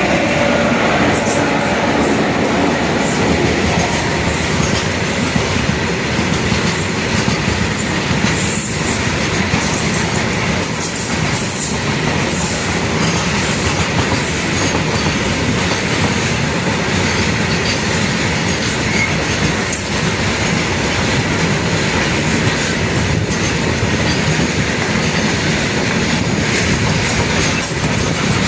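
Steady rumble and clatter of train wheels on the rails, heard from aboard a moving passenger train, as a loaded coal freight train passes on the adjacent track.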